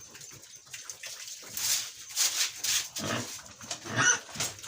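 Pigs squealing and grunting in short, repeated bursts, with a sharper squeal about four seconds in: pigs fighting among themselves in the pen.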